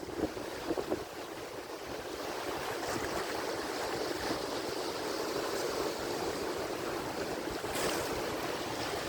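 Ocean surf: a continuous wash of breaking waves that builds over several seconds, with a few brief splashes.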